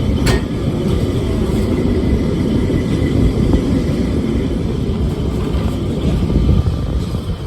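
Lisbon's vintage electric tram running, heard from on board: a steady low rumble of wheels on rails and motor, with one sharp click about a third of a second in.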